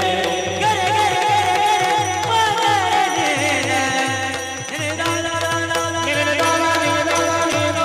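Devotional kirtan singing: a voice sings ornamented, gliding melodic runs over a steady drum beat of about three strokes a second. Around four and a half seconds in, the voice drops away and the accompaniment holds steady sustained notes over the same beat.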